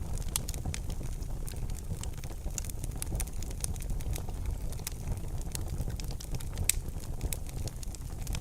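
Wood fire burning in a fireplace: a steady low rumble of flames under frequent sharp crackles and pops, the loudest pop about two-thirds of the way through.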